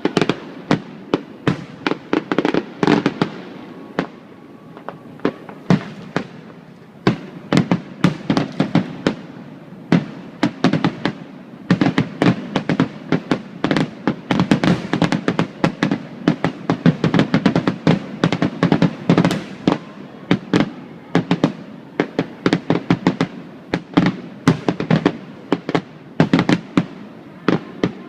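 Fireworks display: a dense barrage of sharp bangs and crackling reports, several a second, with a short thinner stretch about four to six seconds in.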